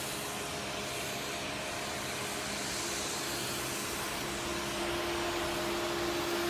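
Steady road and engine noise of a moving car, with a low steady hum that comes in about three seconds in.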